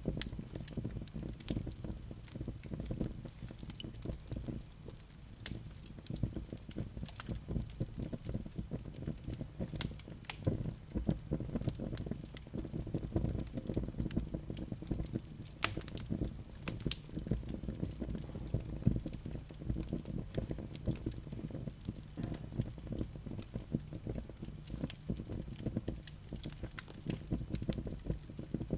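Wood fire burning in a fireplace, crackling with many small irregular snaps and pops over a steady low rumble of the flames.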